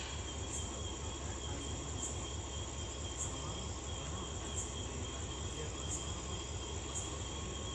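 Crickets chirping in a steady night chorus, with brighter high chirps about once a second, over the low steady throb of an idling diesel locomotive.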